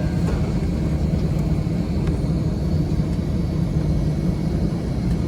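Steady low rumble and hiss inside the cabin of an Airbus A320 on the ground after landing, with a faint steady high whine over it.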